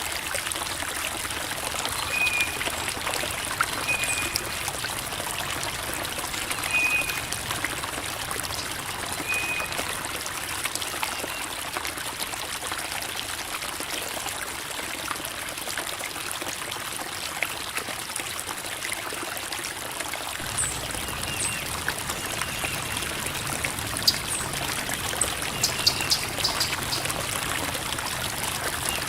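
Creek water babbling and trickling over rocks in a steady rush. A few short high notes sound over it, four of them in the first ten seconds.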